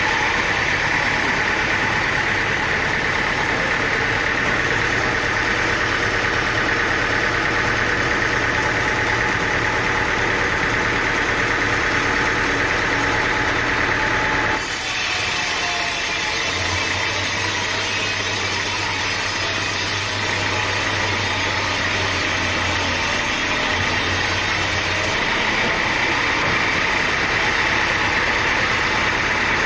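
Sawmill engine running steadily, with an abrupt change in the sound about halfway through.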